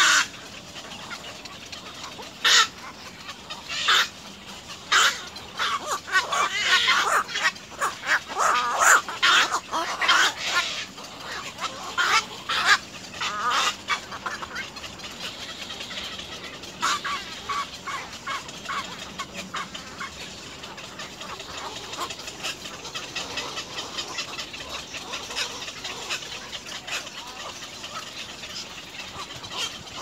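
Birds calling: a run of short, sharp chirps or clucks, busiest in the first half and thinning out after about fourteen seconds.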